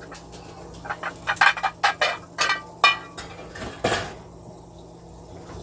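Heavy glass dishes clinking and knocking together as a glass container is got out, a quick run of ringing clinks, then a louder knock about four seconds in.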